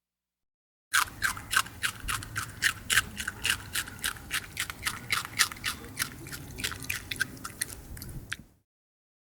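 An animal chewing: rapid crunching strokes, about four a second, over a low rumble, starting about a second in and stopping shortly before the end.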